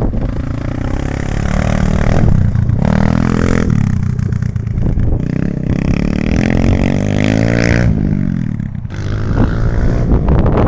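Enduro motorcycle engine being ridden, its pitch rising and falling several times as the throttle is opened and closed.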